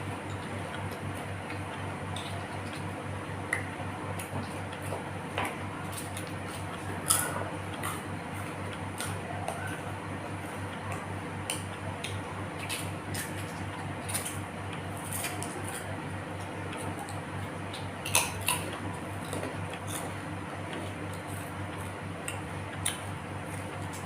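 Close-up eating sounds: scattered small clicks and clinks of cutlery against a plate, with soft wet mouth sounds, over a steady low hum.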